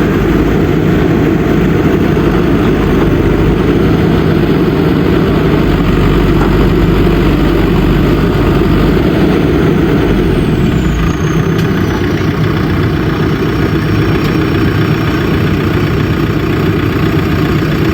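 JCB backhoe loader's diesel engine running steadily, easing off a little about eleven seconds in.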